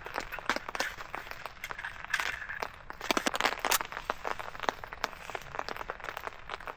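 Newly lit campfire kindling crackling and popping with quick, irregular snaps as the firelighter gets it burning.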